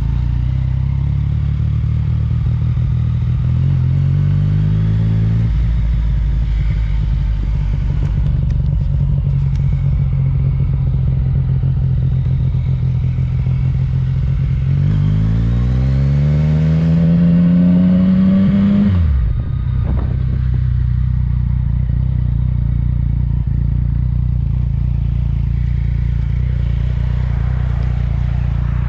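Yamaha MT-09 three-cylinder engine through a Yoshimura exhaust, idling steadily. It is revved briefly about four seconds in, then again more than halfway through, where the revs climb for about four seconds and fall off suddenly with a sharp crack before it settles back to idle.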